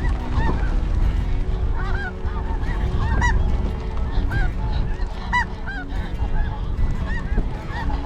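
A large flock of snow geese calling, many overlapping short high-pitched honks throughout. Wind buffets the microphone in a steady low rumble beneath the calls.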